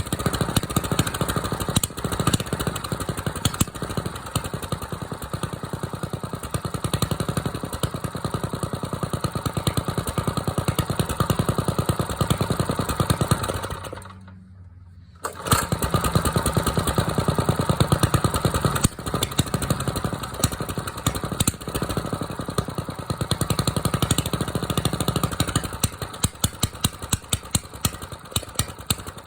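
Small carbureted engine running fast and evenly shortly after a cold start on choke. Its sound cuts out abruptly for about a second and a half midway, then returns at full level.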